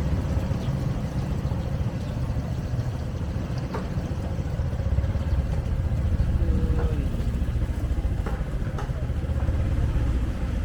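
Motor vehicle engines running in street traffic, a dense low rumble with a few scattered clicks and a short falling tone about two-thirds of the way through.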